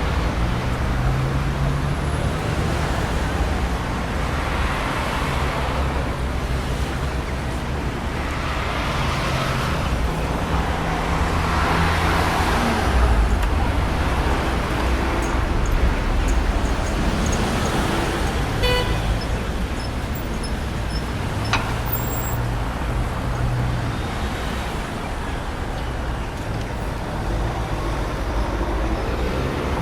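Road traffic passing steadily, with engines humming low and the tyre-and-engine noise swelling and fading as vehicles go by. About two-thirds of the way through comes a brief horn toot.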